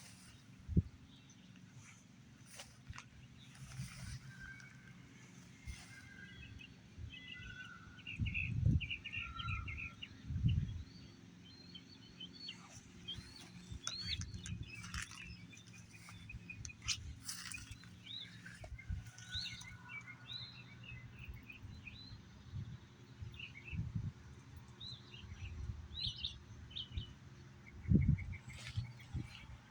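Wild birds chirping and singing in many short, quick calls, with a few low thumps, the loudest about 8 seconds in, again around 10 seconds, and near the end.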